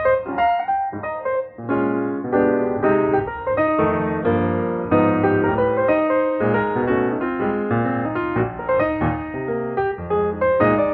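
Background music played on piano: a run of quick notes with no singing.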